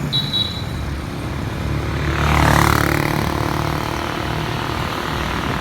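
Road traffic: a steady engine drone with another vehicle passing close by, loudest about two and a half seconds in, and a short high beep just after the start.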